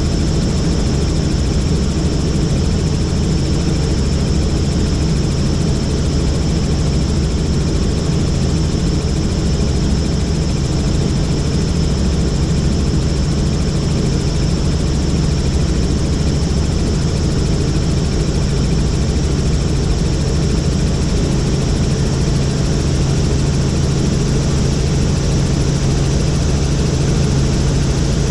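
Helicopter in flight: steady, loud rotor and engine noise with a faint high whine, holding even throughout.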